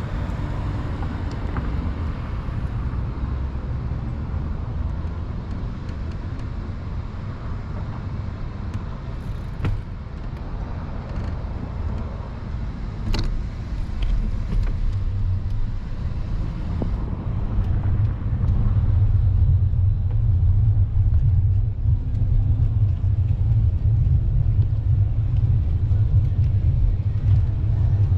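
Ragged low rumble of wind and road noise on the microphone while riding a bicycle, growing louder about two-thirds of the way through, with two sharp clicks near the middle.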